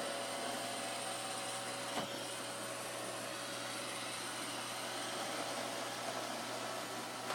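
Roomba robot vacuum running steadily, its motor whine over the hiss of the suction, with a single click about two seconds in.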